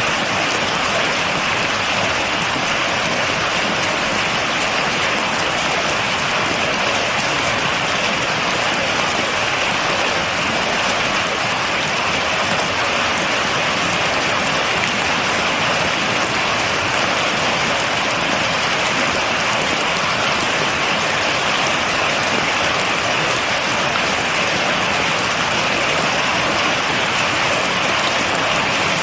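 Steady rain falling without thunder, an even hiss with a fine patter of drops.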